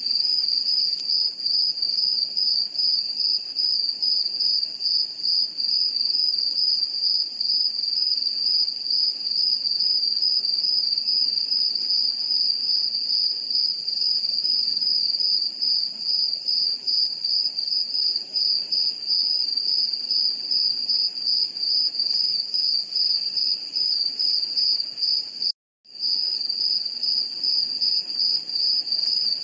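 Crickets chirping in one steady, unbroken high trill. It cuts out completely for a moment about three quarters of the way through, then resumes.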